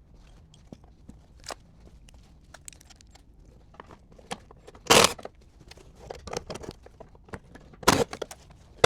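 Hand tools and car parts being handled: scattered light clicks and rattles, with two loud sharp knocks about five and eight seconds in.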